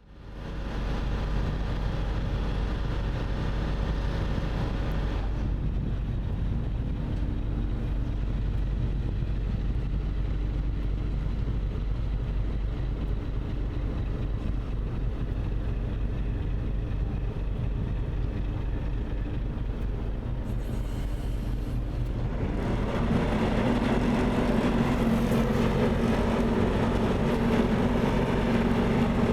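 An engine running steadily, growing louder and fuller about 22 seconds in.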